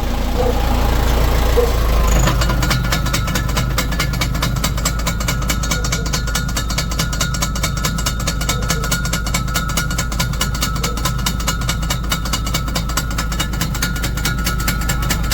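Truck running with a rapid, even knocking from the transmission, about five knocks a second, over the engine hum and a steady high whine, starting about two seconds in. The noise is attributed to a broken gear in the gearbox.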